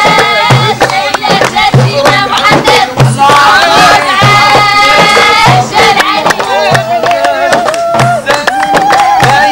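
Campfire song: singing with held, wavering notes over a steady low beat about once a second.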